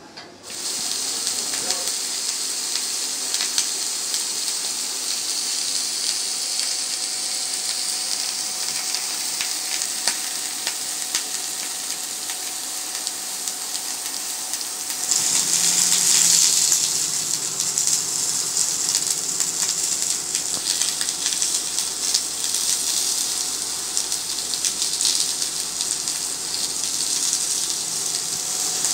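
Carrots, asparagus and mushrooms sizzling in a stainless steel frying pan: a steady frying hiss with scattered crackles, louder for a few seconds about halfway through.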